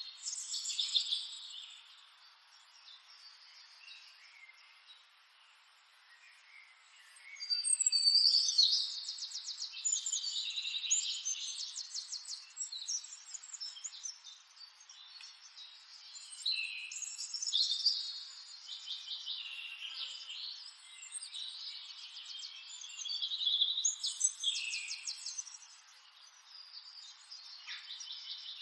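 Songbirds singing in bouts of quick, high trilled phrases, with a quieter lull of a few seconds near the start.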